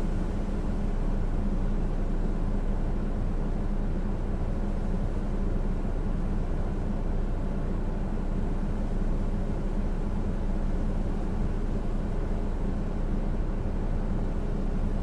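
Steady rushing noise of hurricane wind and rain, even and unbroken, heaviest in the low range.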